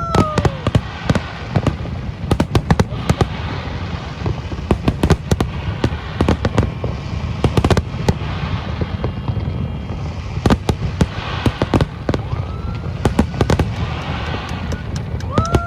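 Fireworks going off in a dense, continuous run of bangs and crackling pops over a low rumble. A held whistling tone sounds briefly at the start and again at the end.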